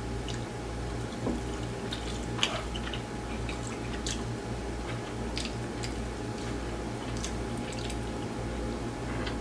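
Close-up chewing and wet smacking of grilled chicken being eaten, heard as scattered small clicks and squishes, with a sharper click about two and a half seconds in. A steady low electrical hum runs underneath.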